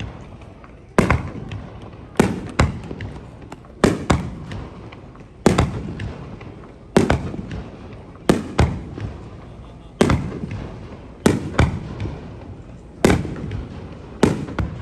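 Aerial fireworks shells bursting in a steady series: a loud bang about every second or second and a half, some in quick pairs, each followed by a rumbling echo that dies away.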